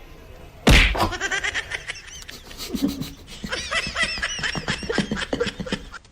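A loud thump under a second in, followed by a person laughing in short repeated high-pitched bursts.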